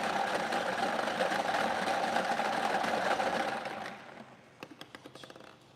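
Button-started prize-draw machine running with a steady mechanical whirring rattle. It stops about four seconds in, and a few faint clicks follow.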